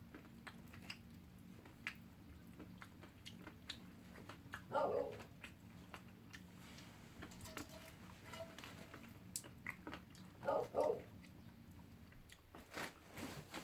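Chewing and crunching on a fire-roasted snack, with louder bites about five and ten seconds in and again near the end, over scattered sharp crackles from the burning firewood and a steady low hum.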